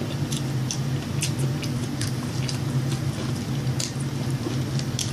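Close-miked chewing with many short wet mouth clicks, over a steady low hum.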